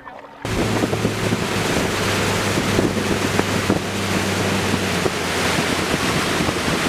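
Wind buffeting the microphone outdoors, with a steady low motor hum underneath that stops about five seconds in. The sound cuts in suddenly about half a second in.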